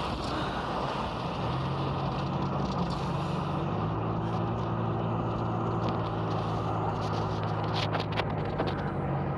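Car interior while driving: steady road and tyre noise with a low engine hum that grows about a second in and deepens again near four seconds, and a few sharp clicks near the eighth second.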